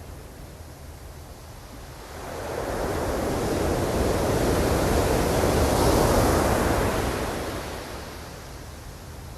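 Ocean wave breaking and washing in. The rush of surf swells from about two seconds in, peaks around six seconds and dies away by about eight seconds, over a constant low rumble of the sea.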